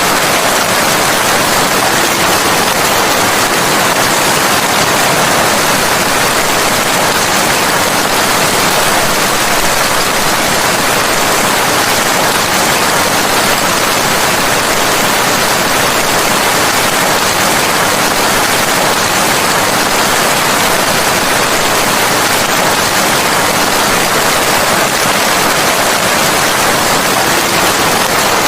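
Steady heavy rainfall, an even unbroken hiss of rain.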